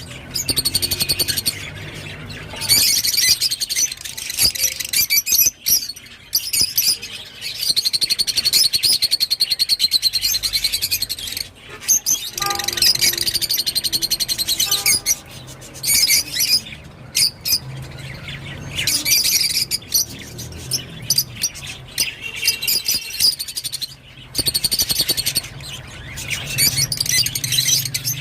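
Rosy-faced lovebirds chirping in fast, high-pitched bursts lasting a few seconds each, with short pauses between.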